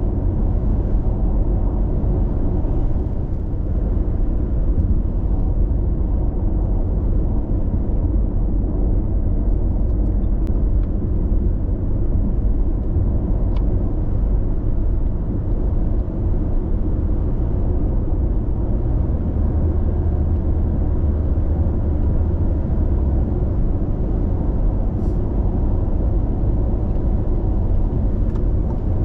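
Steady road noise inside a car cruising at expressway speed: a continuous low tyre-and-engine rumble with little high-pitched sound.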